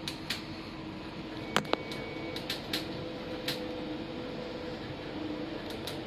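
Steady hum inside a suburban electric train carriage, broken by several sharp clicks and knocks, the two loudest close together about a second and a half in.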